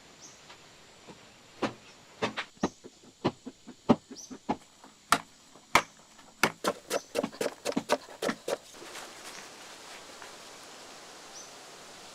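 An irregular run of about twenty sharp knocks, like a hand tool striking, starting about a second and a half in and stopping about three and a half seconds before the end.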